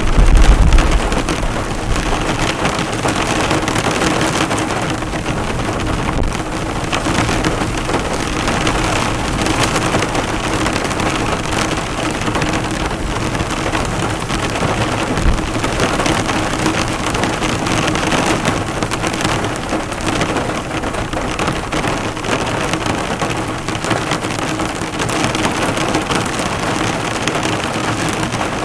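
Heavy rain pelting a car, the drops bouncing off its hood in a steady, dense patter. A short, low rumble sounds at the very start.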